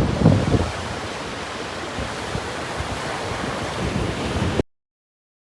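Sea surf washing on the shore with wind buffeting the microphone. The wind rumble is heaviest in the first second, then a steady wash that cuts off suddenly about four and a half seconds in.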